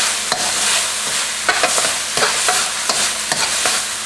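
Minced shallots, garlic and ginger sizzling in peanut oil in a wok, with a metal spoon scraping and knocking against the pan in repeated stirring strokes.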